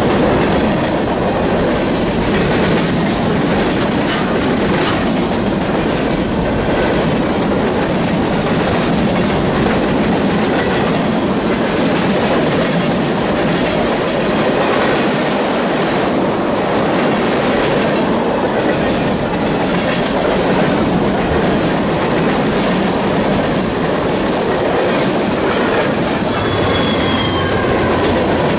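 Freight train rolling by, its cars' wheels rattling and clicking steadily over the rail joints, with a brief faint wheel squeal near the end.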